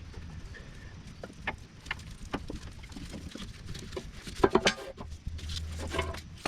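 Scattered clicks and light knocks of a ratchet strap holding the fuel tank being worked loose, with a quick flurry of sharper clicks a little past halfway.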